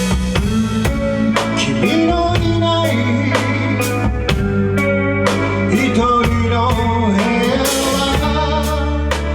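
Rock band playing live: electric guitar over bass notes, with steady drum-kit hits.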